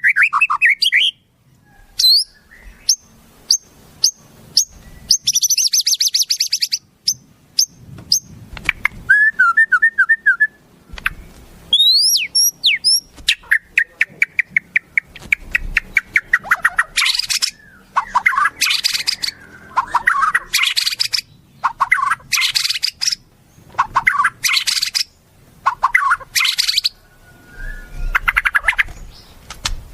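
Recorded wild songbird calls in quick succession: sharp clicks, short rising whistles and a brief trill, then from about halfway a run of harsh, buzzy phrases about a second long, repeated with short gaps.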